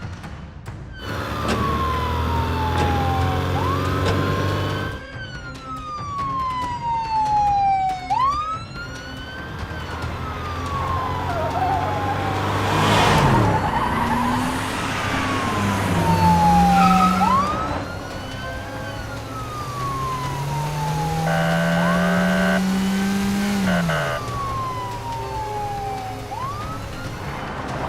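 Police car siren wailing in slow falling sweeps, each snapping back up, repeating about every four seconds, over vehicle engine sounds that rise in pitch as they rev. A brief whoosh comes about halfway through.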